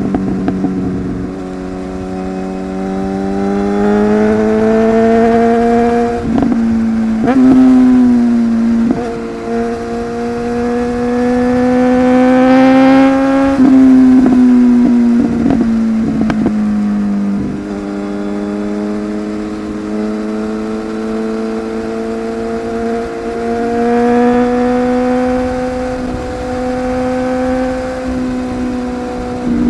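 Superbike engine heard on a ride, its pitch climbing slowly under throttle and then dropping or breaking with gear changes and throttle lifts about 6, 9, 14 and 17 seconds in. It is loudest around 7 and 13 seconds in.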